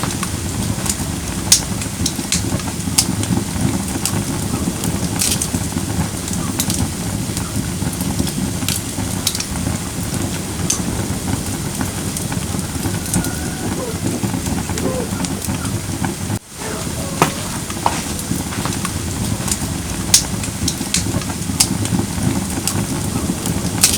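Firewood burning in a fire-pit brazier: a steady low rush of flame with scattered sharp crackles and pops. The sound drops out for a moment about sixteen seconds in.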